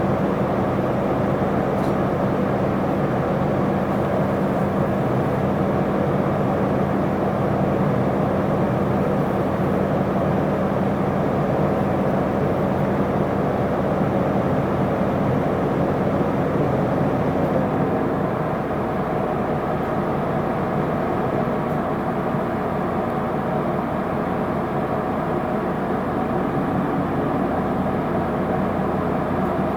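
Isuzu Erga city bus (PKG-LV234L2) engine and drivetrain running, heard from inside the passenger cabin as a steady low hum. About two-thirds of the way through, the engine note changes and gets a little quieter.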